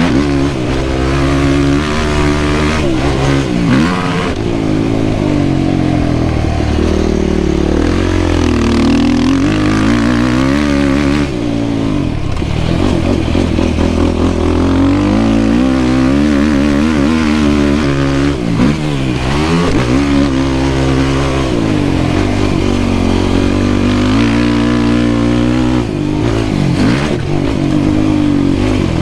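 Yamaha YFZ450R quad's single-cylinder four-stroke engine under riding load. Its pitch climbs and drops again and again as the throttle is opened and chopped.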